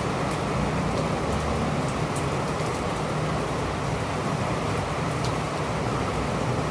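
Steady rain falling, with scattered drop ticks and a low rumble underneath.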